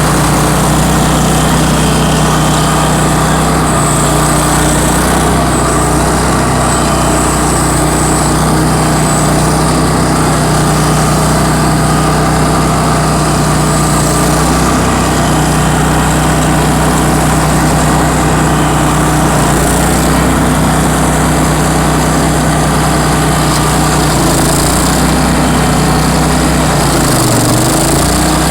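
Bandit ZT1844 stump grinder's engine running steadily at speed, with a brief dip in pitch near the end.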